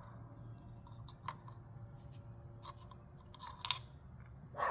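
Faint clicks and light scrapes of small metal parts being handled as the Honda Monkey's oil filter is worked out of its housing with the filter spring, a few separate clicks over a low steady hum.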